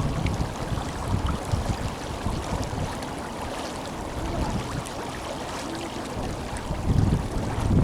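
The Tenryū River's current rushing strongly, as a steady wash of water noise. Low buffets of wind on the microphone swell about seven seconds in.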